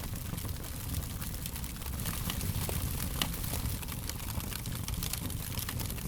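Fire crackling: frequent small, irregular snaps and pops over a steady low rumble, with one sharper pop about three seconds in.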